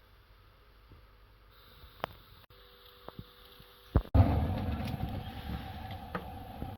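Electric blender switched on for blending the drink: a few light clicks, then, about four seconds in, the motor starts and runs steadily with a low rumble for under three seconds before cutting off suddenly.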